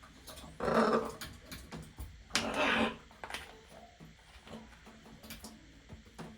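A macaw giving two short, raspy squawks, about a second and a half apart.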